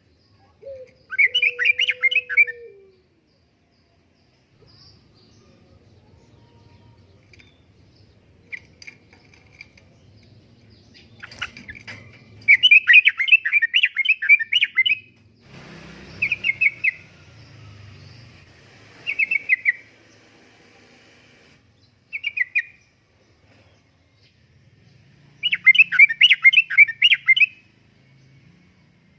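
Yellow-vented bulbul (trucukan) singing in bursts of quick bubbling notes, each phrase a second or two long, repeated about six times with pauses between.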